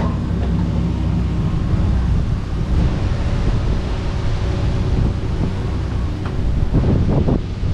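Kobelco SK85 MSR excavator's diesel engine running steadily under work, with a short rough burst about seven seconds in.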